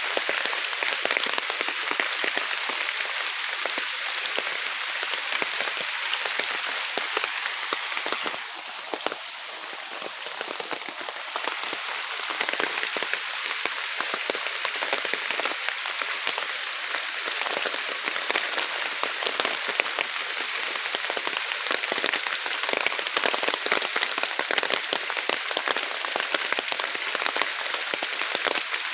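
Heavy rain falling in woodland: a steady hiss made of countless individual drop impacts. It eases briefly about eight seconds in, then comes back just as hard.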